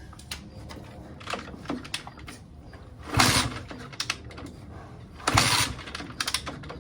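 125cc two-stroke dirt-bike engine being kick-started with the choke on: two kicks, each turning it over in a short burst about two seconds apart, without it catching.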